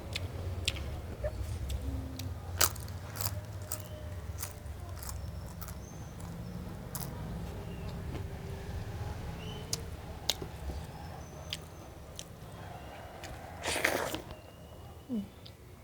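Close-up eating sounds of a person chewing and biting food, with scattered sharp crunches and mouth clicks and one louder crunchy burst near the end.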